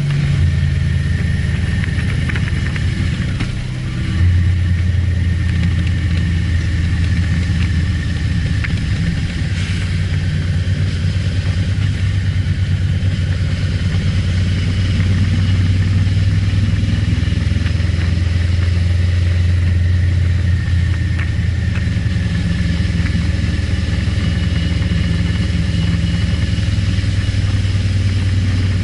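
Honda Varadero XL1000's V-twin engine running steadily on the move. The engine note drops briefly about three seconds in, then picks up again, as at a gear change.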